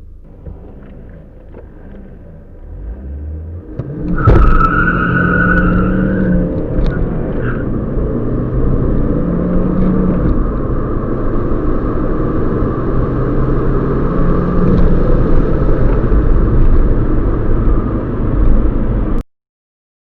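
Car engine accelerating hard from rest for a 0-100 km/h run, with its pitch resetting several times through the gear changes. It swells a little before starting loudly, with a knock about four seconds in, and cuts off abruptly near the end.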